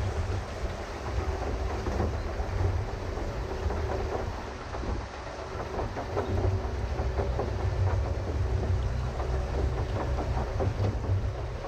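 Pedal boat under way: a steady low rumble with an irregular clatter of the pedal drive and paddle wheel churning the water.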